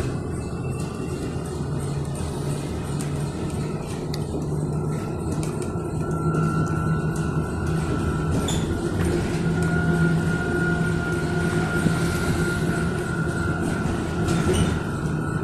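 Electric bus in motion, heard from inside the cabin: steady road rumble with the high whine of the electric traction motor, which rises a little in pitch about six seconds in as the bus gathers speed.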